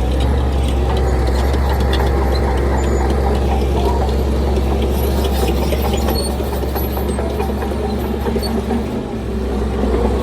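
Heavy diesel engine of earthmoving machinery running steadily with a low drone, with scattered clanks and rattles over it.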